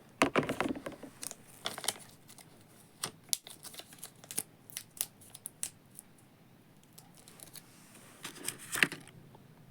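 Irregular crinkling, rustling and sharp clicks from something being handled by hand, with a dense flurry in the first second and another near the end.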